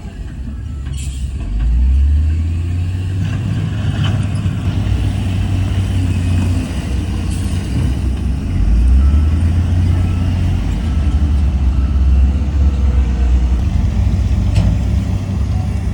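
Heavy diesel earthmoving machinery running: a deep, steady engine rumble that swells about two seconds in and again around nine seconds, with a few faint clicks.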